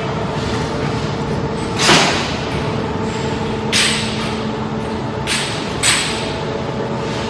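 Steady factory machine hum with four short, sharp hits or bursts: one about two seconds in, one near four seconds, and two close together in the second half.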